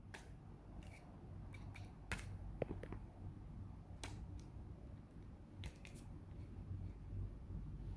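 Faint handling sounds: a dozen or so scattered light clicks and taps over a low steady hum.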